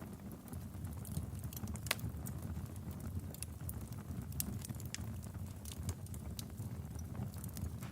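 Wood fire burning in a fireplace: a steady low rumble of the flames with irregular sharp crackles and pops from the logs, one louder pop about two seconds in.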